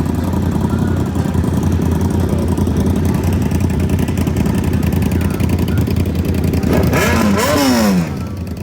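Vehicle engines idling with a steady low rumble. About seven seconds in, one engine is revved hard, its pitch rising briefly and then falling away over about a second as it drops back.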